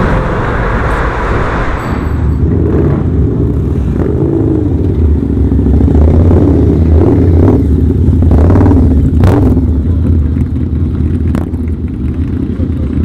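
A loud motorcycle engine running, with several quick revs in the middle.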